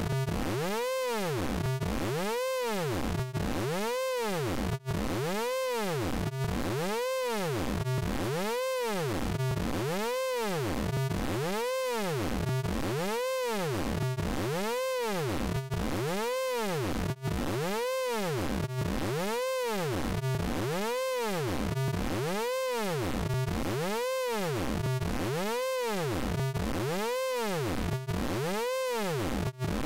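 Synthesized sound effect from the Orange Vocoder software plugin: a steady electronic drone whose tones sweep up and down in even arches, repeating a little more than once a second.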